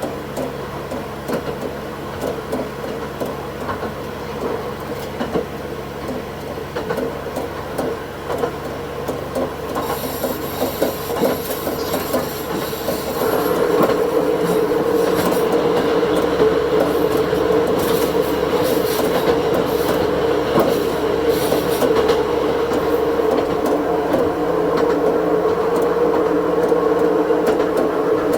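Diesel railcar running along the line: steady engine and running noise with wheel clicks over the rails and a brief high wheel squeal about a third of the way in. The engine note grows louder about halfway through.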